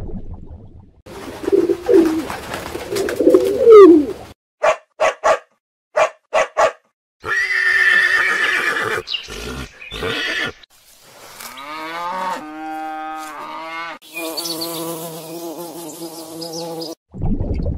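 A run of different animal calls cut one after another: gliding squeals over a noisy bed, then a few short sharp clicks, then drawn-out pitched calls with a wavering tone.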